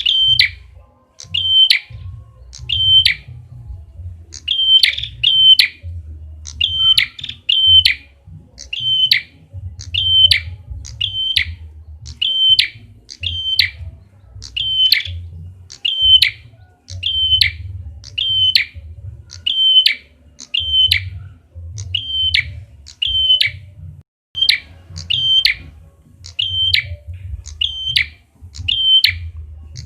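Prenjak kepala merah, a small songbird, calling over and over with sharp, short chip notes, a little more than one a second and sometimes in quick pairs: a lure call used to draw the bird in. A low rumble runs underneath.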